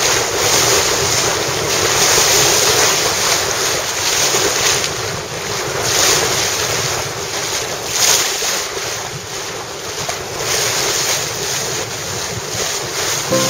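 Wind buffeting the microphone over the rush of sea water along a sailing yacht's hull, rising and falling in gusts.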